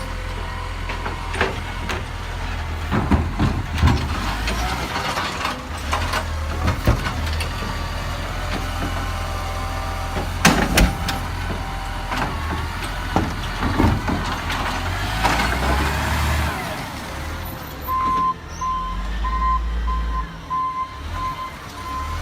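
Garbage truck with its engine running and a series of sharp knocks and clanks. About four-fifths of the way in, its reversing alarm starts beeping at an even pace, about twice a second.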